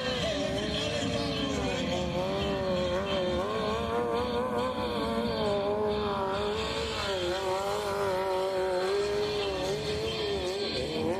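Motorcycle engine held at high revs, its pitch wavering up and down as the throttle is worked.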